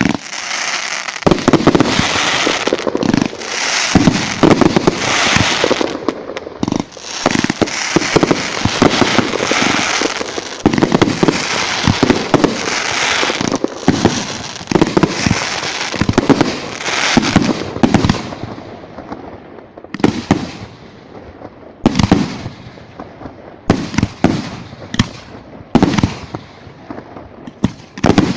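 Fireworks display: a dense barrage of bangs over continuous crackling for most of the time, thinning after about two-thirds of the way in to separate booms, each followed by a fading crackle.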